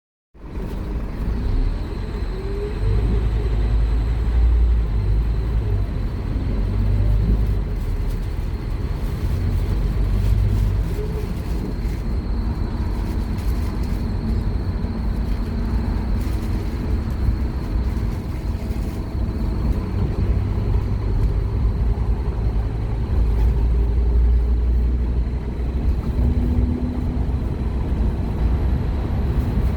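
Scania K230UB Omnilink single-deck bus's five-cylinder diesel engine working hard. Its deep rumble swells and eases several times, with a thin steady high whine above it.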